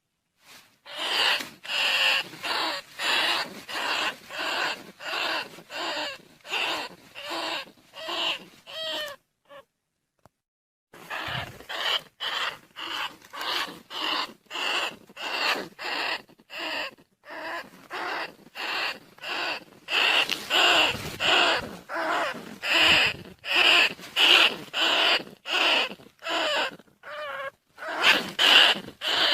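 Field rats squeaking in a rapid series of short calls, about two to three a second, with a brief break about a third of the way through. This is a recorded call played to lure rice-field rats and bandicoot rats.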